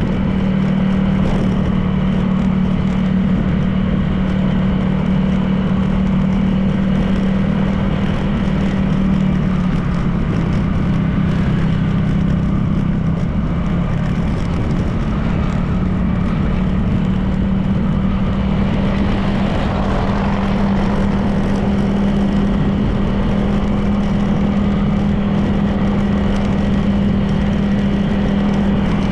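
Honda PCX 160 scooter's single-cylinder engine running at a steady cruise, with road and wind noise. The engine note sags briefly about ten seconds in and picks up again, and a swell of road noise comes around twenty seconds in.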